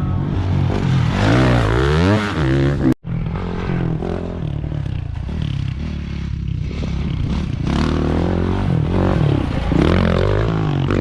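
Dirt bike engines revving up and down again and again, the pitch climbing and falling with each throttle change, broken by a sudden cut-out about three seconds in.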